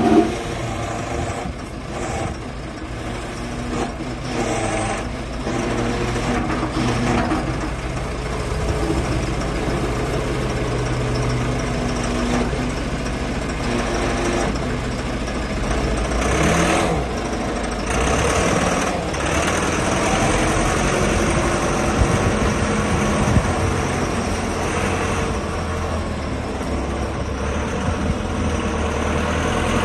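JCB 4CX backhoe loader's diesel engine running at low speed, its pitch shifting a few times.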